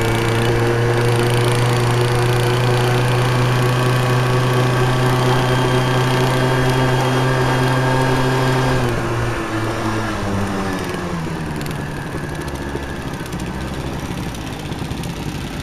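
Small off-road vehicle engine running loud at a steady high speed, then easing off about nine seconds in, its pitch falling and the sound growing quieter.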